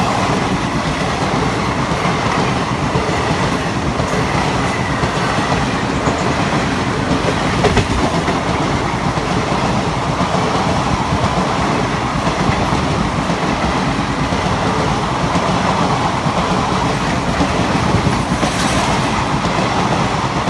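Steady rumble and clickety-clack of passenger train wheels on the rails, with a few sharper knocks, heard from the open doorway of a coach while a train of passenger coaches runs close alongside on the next track.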